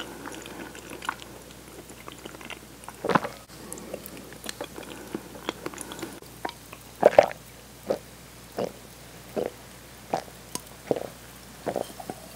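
Close-miked chewing of a last mouthful of tomato cream spaghetti: soft, wet mouth clicks and lip smacks, coming at a steady pace of about one a second in the second half.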